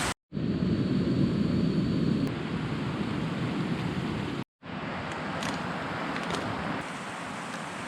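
Steady rushing of river water, cut off sharply twice for a moment.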